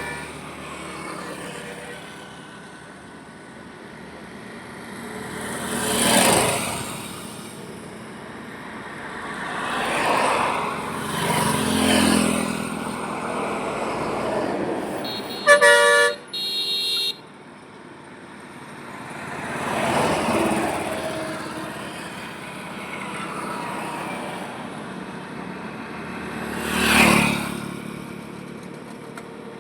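Highway traffic, with vehicles passing one after another, each swelling up and fading away. About halfway through, a vehicle horn gives two short blasts in quick succession.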